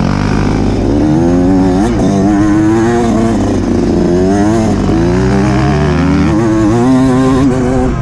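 Off-road motorcycle engine under load, revving up and falling back over and over as the throttle is worked through rough terrain.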